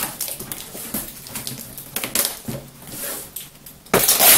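Packing tape being handled on a cardboard box: scattered clicks and rustles, then, near the end, a loud, sustained rasp of tape pulled off a tape gun to seal the box.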